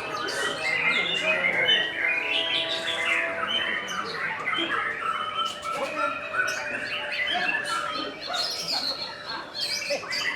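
Many caged songbirds singing at once in a competition: a dense, unbroken chorus of overlapping chirps, trills and whistled phrases.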